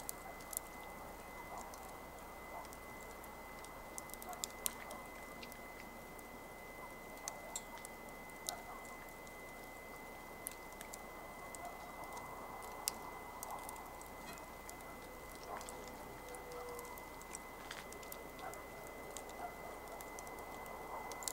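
Wood campfire crackling: scattered sharp snaps and pops over a soft steady hiss.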